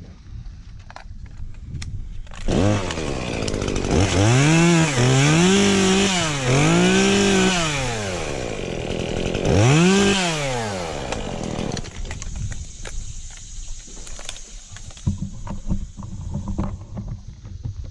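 Chainsaw revving up and running at full speed for several seconds with brief dips in pitch, then falling off, followed by one more short rev that drops away.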